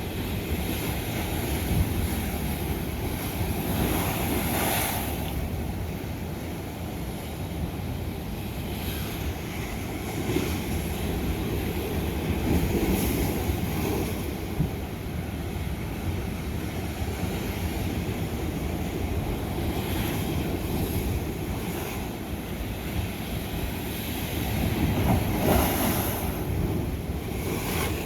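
Ocean waves crashing on lava rock: a steady low rush of surf that swells louder about four seconds in and again near the end.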